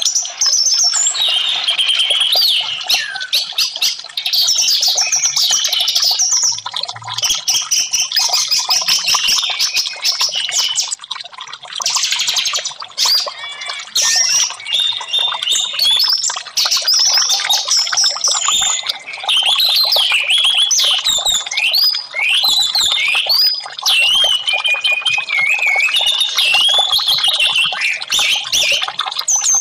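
Orange-headed thrush singing a loud, continuous, fast run of varied whistles and chattering phrases with only short breaks.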